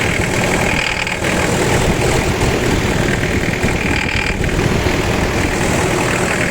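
Toyota 1KZ four-cylinder turbodiesel idling with a rapid clattering knock, which the owner puts down to the fuel injectors.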